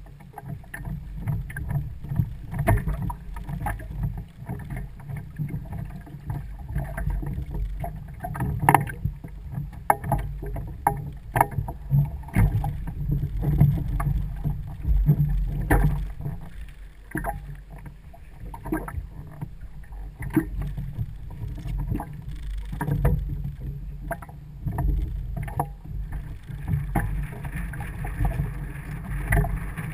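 Kayak on the water: a steady low rumble of water against the hull, broken by many short knocks and clicks.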